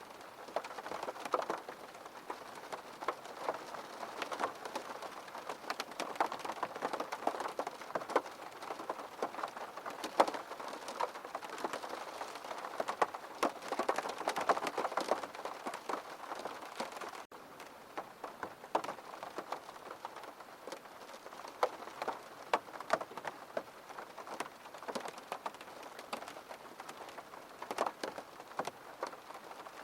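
Steady rain falling, with many separate drops heard striking a surface over an even hiss. The level dips slightly and suddenly about seventeen seconds in.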